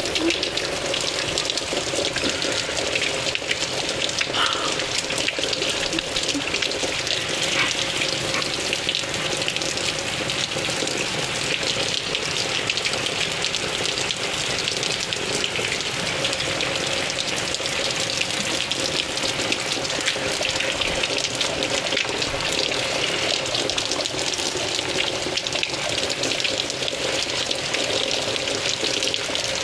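Rain mixed with snow falling: a steady, even hiss made up of many fine ticks, with a faint steady hum underneath.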